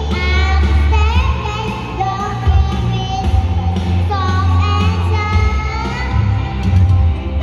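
A girl singing a pop song over a backing track with a strong bass line, her voice gliding between long held notes.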